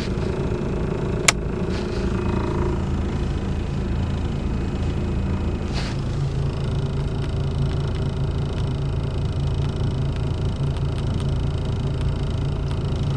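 Truck engine running with a steady low rumble, and a single sharp click about a second in.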